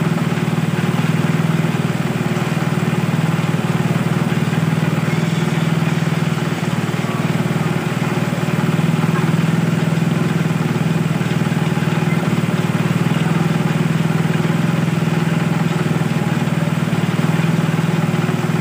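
Small engine of a portable water pump running steadily at one constant speed, an even low drone.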